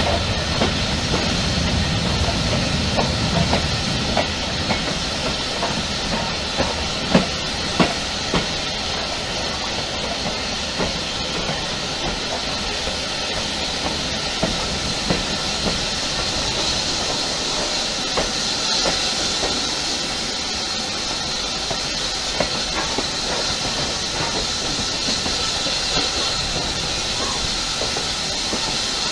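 Steam-hauled passenger train running along the line, heard from a carriage window: a steady rush and hiss with a few sharp clicks of wheels over rail joints, the loudest about seven and eight seconds in.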